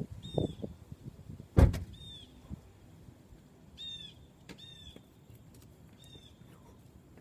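A few low rumbling puffs and then a single sharp bang about one and a half seconds in. A bird calls several times with short, high, repeated notes.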